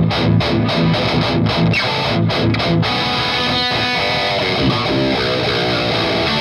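High-gain distorted 7-string electric guitar with an EMG 81X pickup, played through a Noise Pollution PMDM (Psycho Metal Death Machine) distortion pedal. For about three seconds it plays a tight, stop-start chugging metal riff with abrupt silences between the hits, then moves into longer ringing notes and chords.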